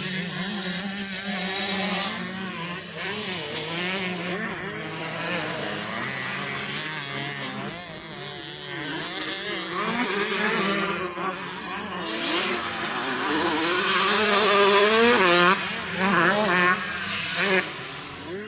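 Several 125cc motocross motorcycle engines racing, their revs rising and falling constantly as the riders work the throttle and shift. One bike revs up close and loud about two-thirds of the way in, then cuts off sharply, followed by a few quick blips of the throttle.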